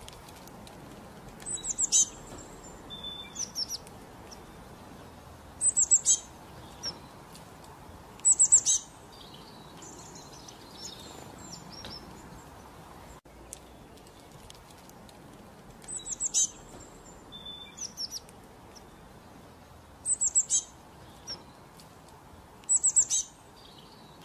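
Small birds chirping: short clusters of high chirps every few seconds over a faint steady hiss, the same run of chirps repeating about halfway through.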